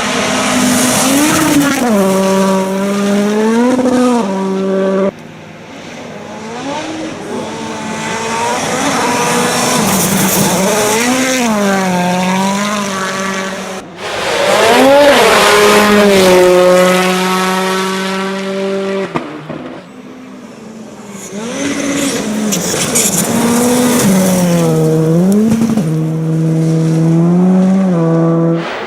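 Racing engines revving hard, their pitch climbing and dropping over and over with throttle and gear changes, in several stretches that break off abruptly.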